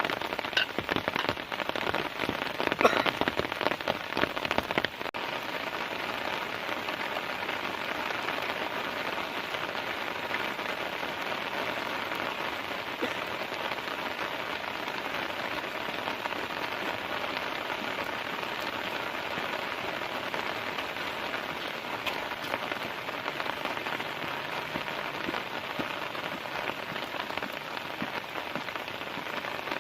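Heavy rain falling steadily. For the first five seconds many separate loud drop hits stand out; then the sound changes suddenly to an even, steady rain hiss.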